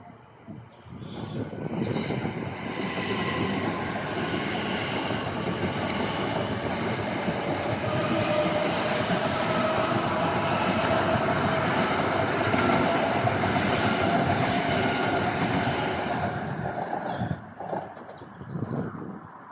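A train running past on the rails, with a steady whine and clicks and clatter from the wheels over the track. It starts about a second in and drops away suddenly near the end.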